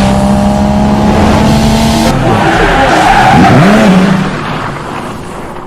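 Car engine at high revs with tyres skidding, loud, changing abruptly about two seconds in, then rising and falling in pitch before fading out near the end.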